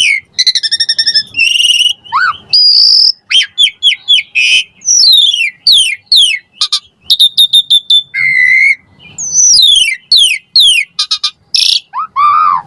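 Asian pied myna singing a fast, varied song of loud whistles, rising and falling sweeps, rapid trills and harsh buzzy notes, in short phrases with brief breaks between them.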